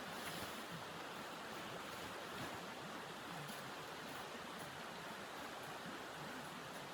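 Steady rush of blizzard wind, an even noise with no change in level, with a few faint ticks.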